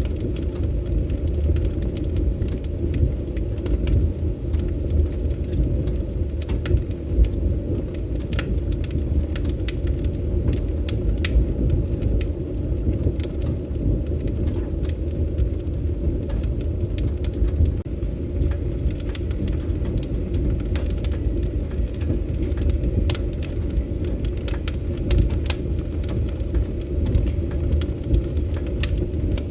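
Wood fire burning steadily: a continuous low roar of flames with irregular sharp crackles and pops from the burning logs, a few louder snaps standing out.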